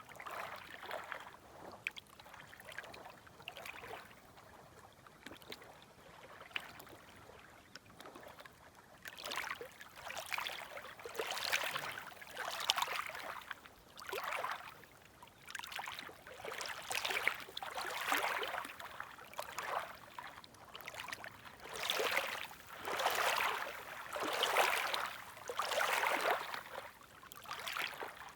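Small, gentle sea waves lapping on the shore, one soft swish after another every second or two, growing a little stronger after the first third.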